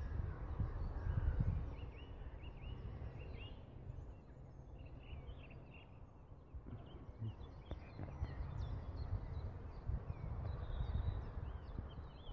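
Small birds singing, with many short chirps and twitters, over a low rumble that is louder in the first couple of seconds and again near the end.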